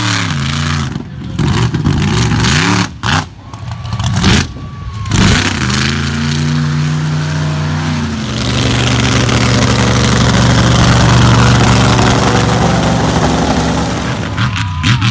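Monster truck engine revving hard, with the throttle snapped shut and reopened several times in the first five seconds, then held at high revs for several seconds before easing off near the end.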